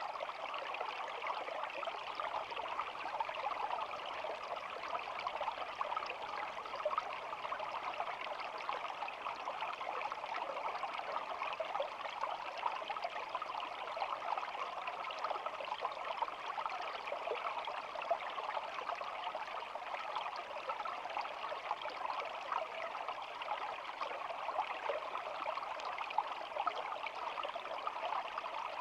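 Shallow stream babbling steadily: an even rush of running water flecked with many small splashes and trickles.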